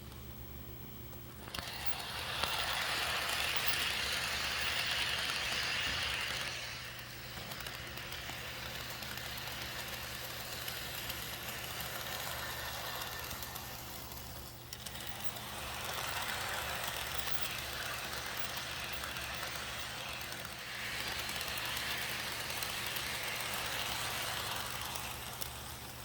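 HO scale model train running on track: steady rattle of wheels on the rails over a low motor hum, swelling louder twice as the train passes close.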